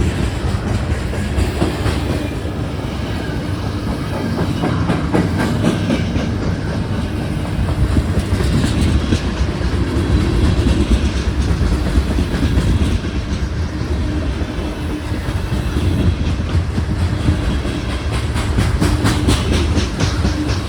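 CSX freight train rolling past at close range, a steady rumble with the wheels clicking rapidly over the rail joints.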